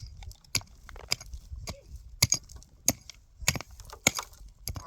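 Sharp, evenly spaced blows of a hand tool, about one every 0.6 seconds, each with a brief high ring.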